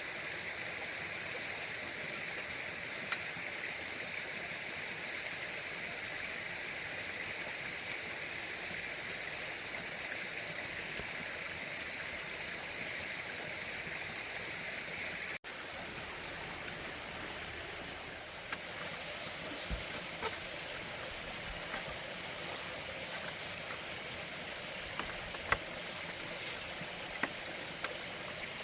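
Steady outdoor ambience: a continuous even rushing hiss with a steady high-pitched drone over it. It is cut off briefly about halfway through, then carries on with scattered faint clicks.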